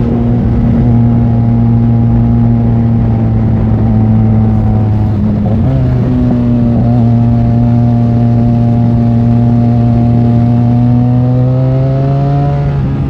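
Benelli 502C's parallel-twin engine running steadily at cruising speed while riding, with a brief wobble in pitch about halfway through and the pitch slowly rising near the end before dropping off.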